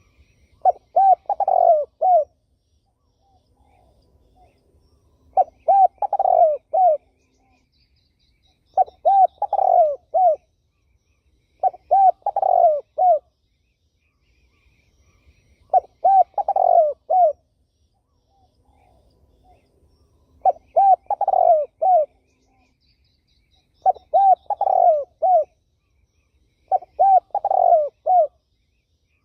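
Spotted dove (terkukur) cooing: eight short phrases of several quick coo notes, each phrase about a second and a half long and repeated every three to four seconds. Faint high chirps from other small birds come between the phrases.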